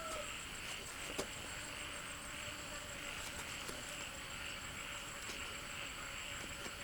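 Steady chorus of insects chirring, with a single sharp click about a second in.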